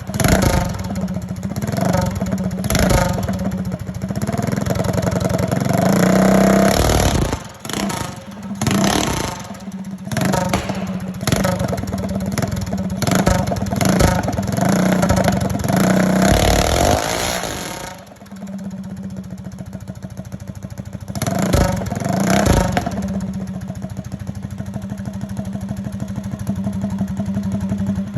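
Small vintage minibike engine running and being revved again and again with quick throttle blips, some climbing in pitch. About two-thirds of the way through it settles to a steady idle, with a couple more blips soon after.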